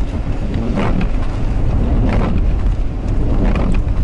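Steady road and engine rumble inside a car's cabin on a snowy highway. Windshield wipers sweep about every second and a half.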